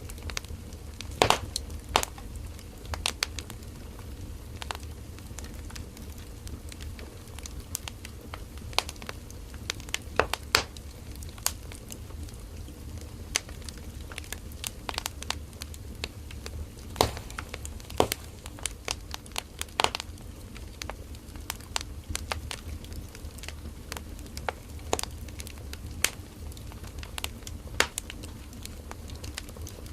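Firewood burning in a campfire: irregular sharp crackles and pops over a steady low rumble of the flames.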